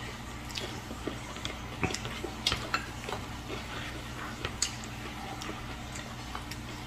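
Chewing a fresh rice-paper roll of fish and crisp vegetables, with scattered small wet mouth clicks and light crunches.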